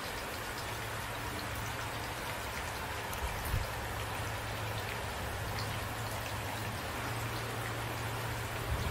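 Steady rain falling, with individual drops hitting close by. A brief low thump about three and a half seconds in.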